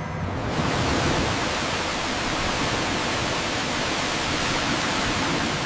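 Water rushing and pouring in a loud, steady hiss as the crane-hoisted salvage basket comes up out of the sea. It swells about half a second in and fades away near the end.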